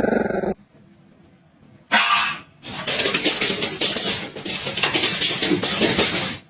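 A dog vocalizing: one short bark about two seconds in, then a long, rough run of rapid noisy barking. Music cuts off about half a second in.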